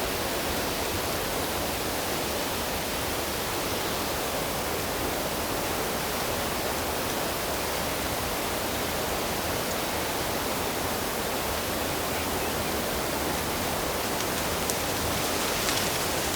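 Flowing water: a steady, even rush with no pauses or swells.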